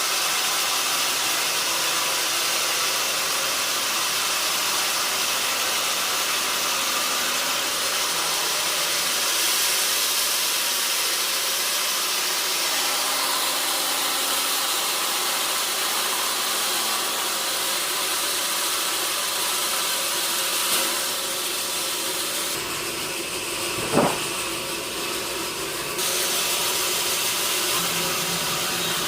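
Sawmill saw cutting through a log: a steady, continuous sawing noise, with one sharp knock near the end.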